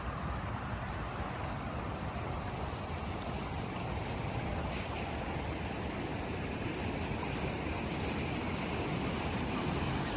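Brush Creek swollen with floodwater after heavy rain, running fast as a steady, even rush of water.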